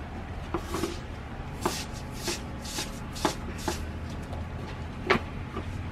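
Footsteps crunching in fresh snow: a string of short, uneven crunches about every half second.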